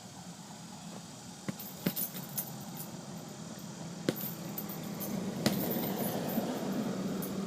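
Boxing gloves punching a heavy bag in a quick combination: a cluster of sharp smacks about two seconds in, then single hits about four and five and a half seconds in, with the bag's hanging chains jangling.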